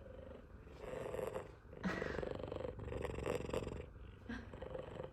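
F2 Savannah cat purring loudly, the purr swelling and easing about once a second with each breath in and out.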